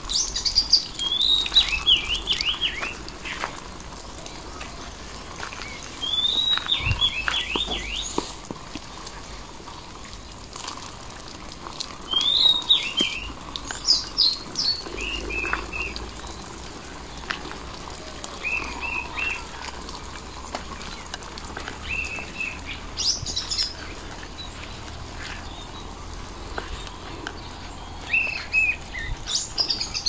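Songbirds singing short warbling, chirping phrases, repeated every few seconds with brief pauses between them.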